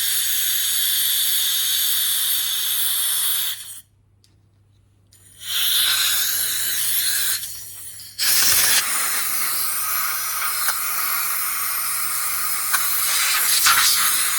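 Compressed air blasted through the tiny ports and passages of a Yamaha YZF1000 Thunderace carburettor to clear them: a loud hiss in three blasts, cutting off about four seconds in and again shortly before the halfway point, the last blast the longest.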